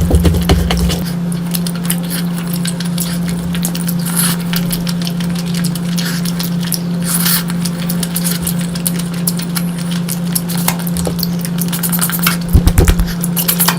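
Close-miked eating of curry: a dense run of small wet chewing and mouth clicks over a steady low hum.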